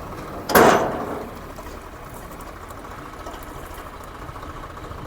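A loud sudden crash about half a second in that dies away within a second, over the steady running of a machine engine.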